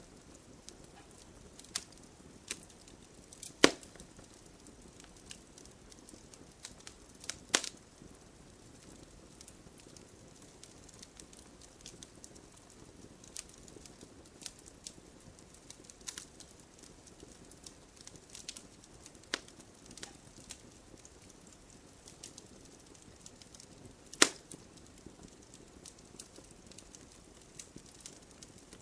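Wood fire crackling in a fireplace: a soft hiss with scattered small crackles and a few louder sharp pops, about four seconds, seven and a half seconds, and twenty-four seconds in.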